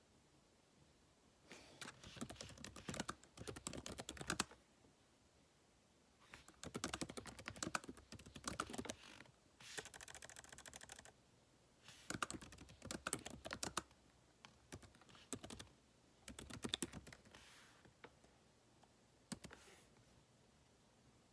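Typing on a computer keyboard in quick runs of keystrokes with pauses between them, plus a short steady rushing noise about ten seconds in.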